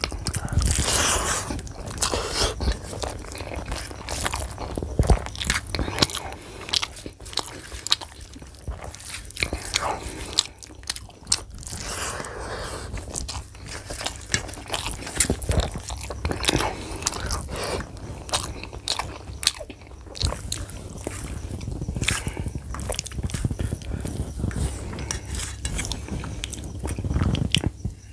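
Close-miked chewing and wet mouth clicks of a person eating rice and curry by hand, mixed with the squish of rice being kneaded with the fingers on a steel plate.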